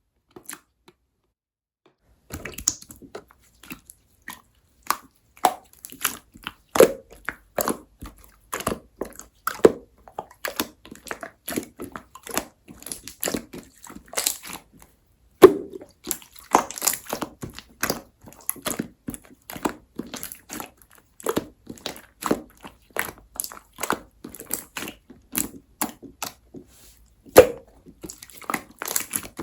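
Pearly silver marbled slime being squeezed and pressed by hand, giving a dense, irregular string of sharp sticky pops and clicks that starts about two seconds in.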